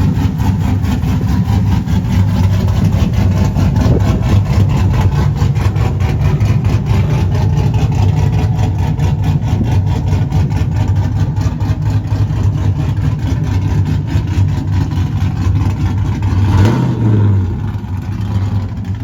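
Pickup truck engine running steadily close by, with a short rev near the end.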